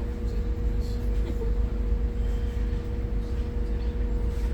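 Scania N280UD CNG double-decker bus running steadily, heard from the top deck: an even engine and drivetrain rumble with a steady hum on top.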